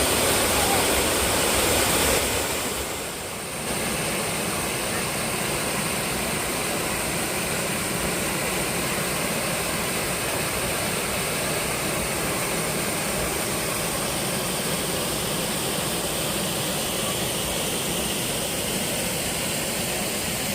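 Waterfall rushing: a steady, even sound of falling water, dipping briefly about two to three seconds in and then going on a little quieter.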